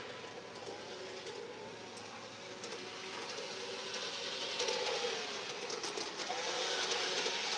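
G-scale garden railway model train running along the track, its wheels clicking over the rail joints, growing louder from about four seconds in.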